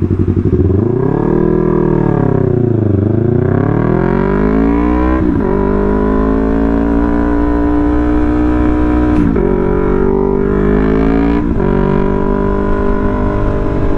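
Yamaha R3 motorcycle's parallel-twin engine under way. Its pitch rises and falls with the throttle, then holds fairly steady, with sudden breaks in pitch about five, nine and eleven seconds in as gears change.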